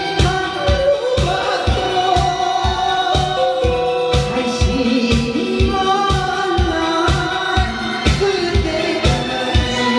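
Live singing over a backing track with a steady beat: a held, sliding vocal melody above regular bass beats.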